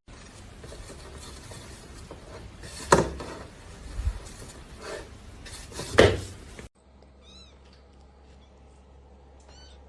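Two sharp clatters over a steady hiss, then two short, high cat meows.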